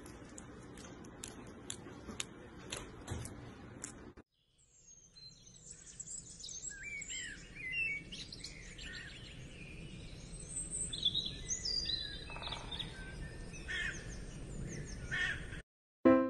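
Small birds chirping and singing, many short rising and falling calls overlapping, starting after a brief gap about four seconds in. Before the gap, a run of soft clicks over low noise.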